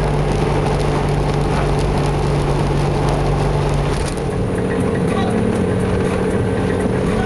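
A 4x4's engine running steadily under way, its pitch stepping up slightly about four seconds in.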